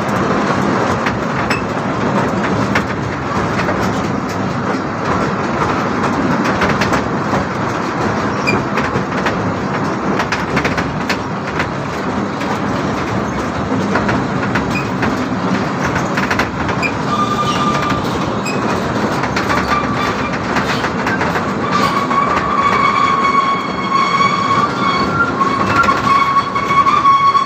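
Amusement-park ride-on train heard from aboard: steady running rumble with rapid clicking of the wheels over the track. Near the end a high squealing tone with overtones comes and goes several times.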